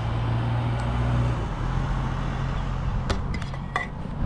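An engine running steadily at a low, even idle, its pitch shifting slightly about a second and a half in, with a few sharp clicks near the end.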